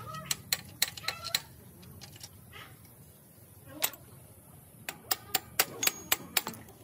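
A run of sharp taps and clicks, as from hand tools knocking on parts. About five come in quick succession at the start, one stands alone in the middle, and about eight more follow in the second half.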